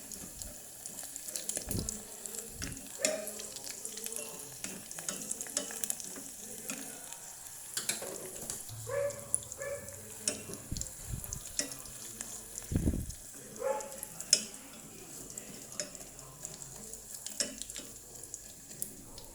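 Hot oil sizzling and crackling as batter-coated shrimp deep-fry in a pan, with a few low knocks from handling in the pan.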